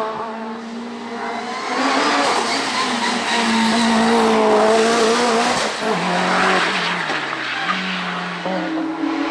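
Hill-climb race car engine running hard at high revs, growing louder about two seconds in. Its pitch drops in steps around the middle and then steps back up near the end as it changes gear.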